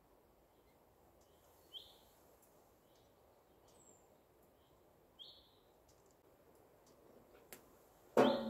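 Quiet forest background with scattered short bird chirps and one high falling whistle. A few faint clicks. A louder sound begins abruptly near the end.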